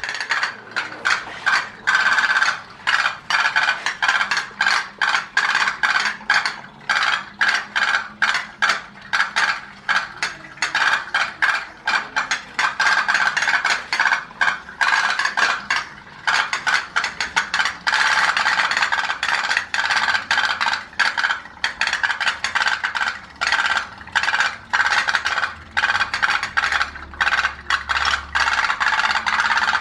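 Tin pop-pop boat engines running: the sheet-metal boiler diaphragms give a rapid, uneven clatter of sharp pops that goes on without a break.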